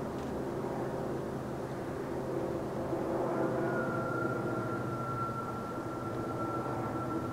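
Electric multiple-unit train running past with a steady hum. A thin, high, steady tone joins it about halfway through.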